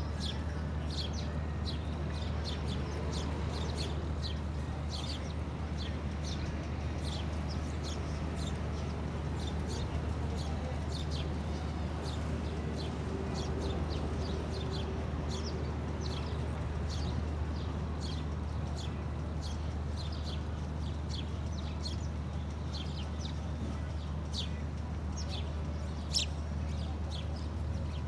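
Birds chirping: many short, high, falling chirps, several a second and irregular, over a steady low hum, with one sharp click near the end.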